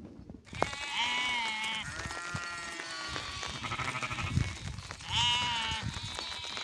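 Sheep bleating, several animals calling over one another. There are high-pitched bleats about a second in and again about five seconds in, with lower, deeper bleats between them.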